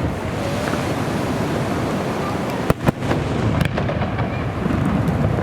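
Aerial fireworks display: a dense, continuous barrage of shell bursts, with a few sharp bangs close together about halfway through.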